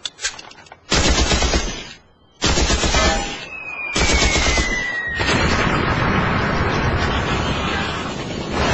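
Machine-gun fire: three bursts about a second long each, a falling whistle over the third, then a sustained din of heavy gunfire.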